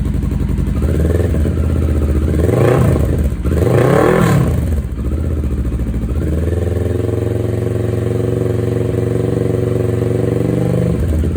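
CFMOTO 650NK parallel-twin engine running through a Musarri slip-on muffler with the baffle removed. It idles, is revved twice in quick blips about two and a half and four seconds in, then settles back to a steady idle.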